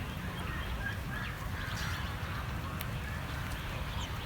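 Domestic poultry calling: many short, overlapping calls over a steady low rumble.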